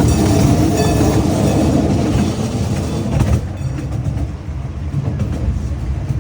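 Zoo passenger train running along its track, heard from on board: a steady rumble of the wheels and cars that eases somewhat about three and a half seconds in.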